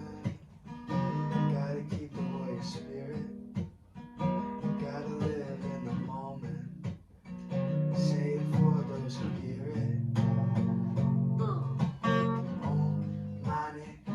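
Acoustic guitar being strummed, playing sustained chords with a couple of brief pauses.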